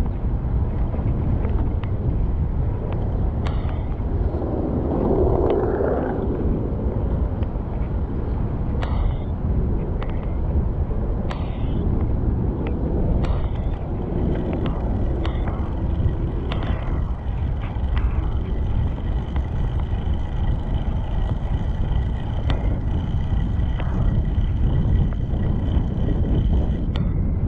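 Steady wind rumble on the microphone and road noise from a bicycle ride through city streets, with scattered small knocks as the bike rolls over bumps.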